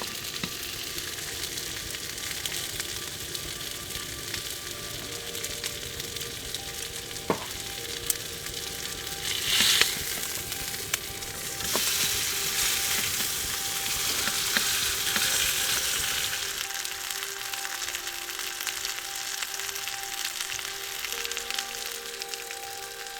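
Food sizzling as it fries, a steady hiss that swells louder near ten seconds and again for a few seconds after that, then eases off.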